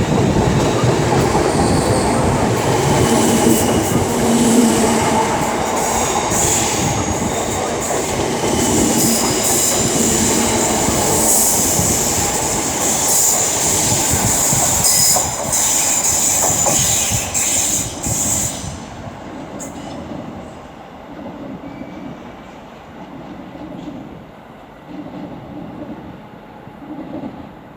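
Electric multiple-unit train running along the platform at a station, with rail noise and squealing wheels over a low rumble. The squeal stops sharply about eighteen seconds in and the sound falls away to a quieter hum.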